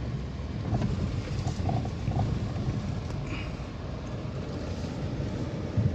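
A vehicle driving along a dirt forest road: steady low engine and road rumble, with a few faint short sounds and a thump near the end.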